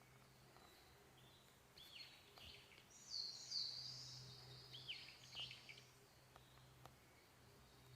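Songbirds calling in woodland: scattered chirps and short down-sweeping notes with a brief trill in the middle, over a faint steady low hum.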